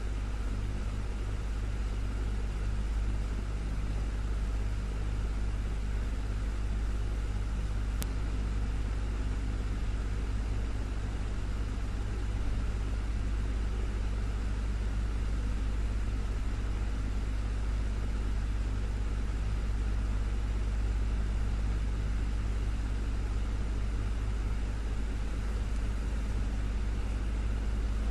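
Desktop electric fan running steadily, a low hum under an even whoosh of moving air. A single faint click about eight seconds in.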